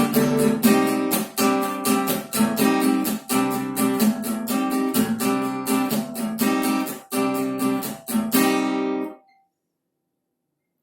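Acoustic guitar strummed in a steady rhythm, the instrumental ending of a song; the strumming stops abruptly about nine seconds in.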